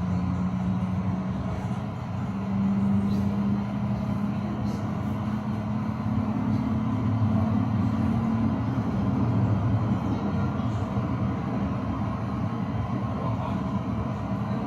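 Electric tram running on its rails with a steady low rumble. A motor hum rises slightly in pitch for the first eight seconds or so, then fades out.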